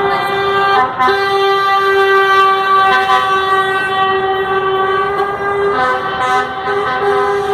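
Truck air horns sounding in long, sustained blasts, with brief breaks about a second in and near six seconds.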